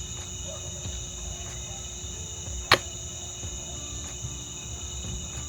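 Night insects chirring steadily in several high-pitched tones. A single sharp click cuts through about two and three-quarter seconds in.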